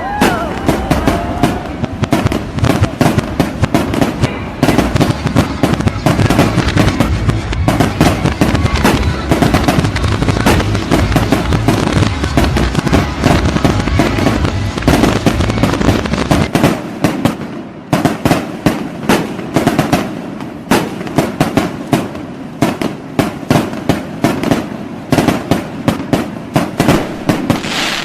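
New Year fireworks going off in a dense, continuous barrage of bangs and crackling, many reports a second. A low rumble under the bangs dies away about two-thirds of the way through, while the bangs carry on.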